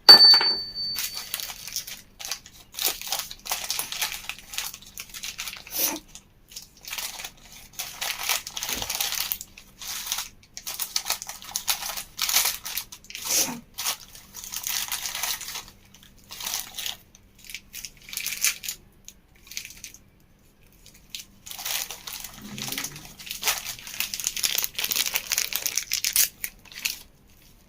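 Crinkling, rustling and tearing of packaging in irregular bursts, as a new 6202 ball bearing is handled out of its wrapping, with a short pause about two-thirds of the way through. A brief high tone sounds at the very start.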